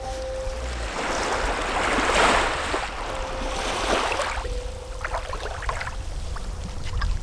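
Water washing in two swelling surges, with a soft held note of background music under it.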